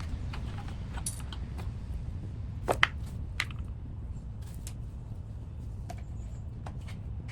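Small metal parts and tools clicking and knocking as a pressure washer's carburetor and fuel line are worked loose, with a sharper pair of clicks a little before halfway, over a steady low hum.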